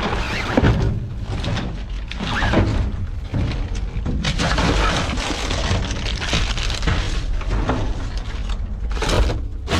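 Rummaging through a dumpster: a dense run of rustling, clattering and knocking as items are moved about, over a constant low rumble.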